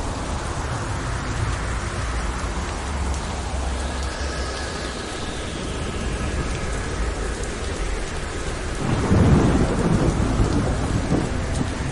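Thunderstorm: steady rain with thunder rumbling low underneath, and a louder roll of thunder about nine seconds in.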